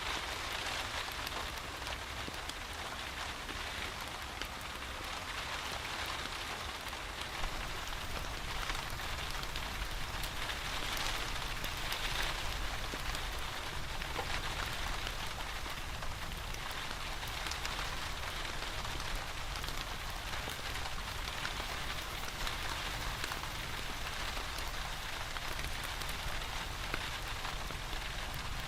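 Steady rain falling, with a low rumble underneath and a few sharp ticks scattered through it.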